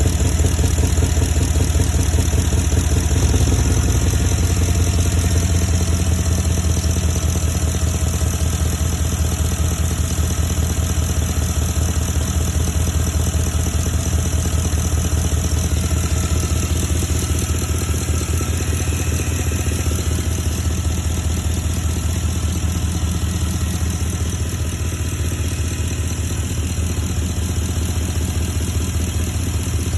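2012 Porsche Cayenne S's V8 engine idling steadily, the engine whose problem is being shown.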